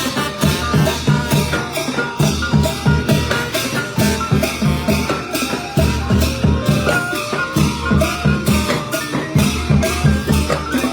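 Thai brass band (trae wong) playing a fast, upbeat marching tune, with brass melody over a steady beat of drums and shaken percussion.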